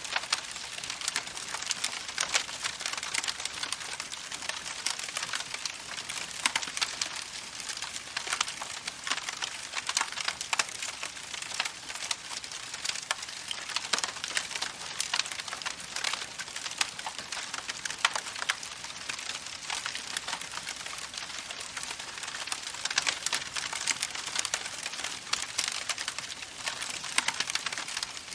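Campfire crackling: a dense, irregular run of small pops and snaps over a soft hiss.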